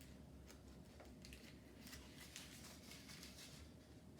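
Near silence with faint, scattered rustling of a construction-paper and plastic-straw model airplane being handled.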